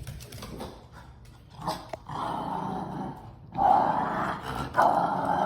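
Cockapoo dogs growling in play over a ball: three long rough growls, the first beginning about two seconds in, each running about a second.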